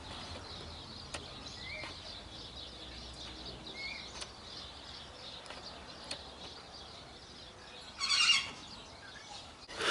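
Faint outdoor birdsong: a couple of short chirps, then a louder bird call about eight seconds in.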